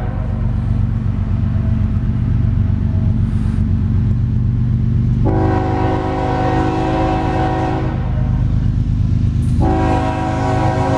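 Freight locomotive air horn blowing in separate blasts: one cuts off right at the start, a long blast sounds from about five to eight seconds in, and another begins about a second and a half before the end, all over the steady rumble of the passing train.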